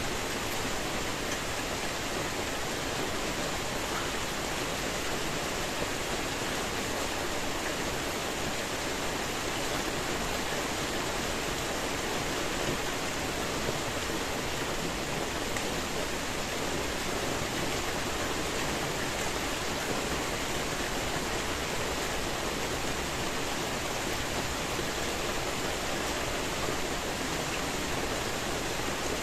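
Steady rain falling, a dense even hiss without breaks or single distinct drops.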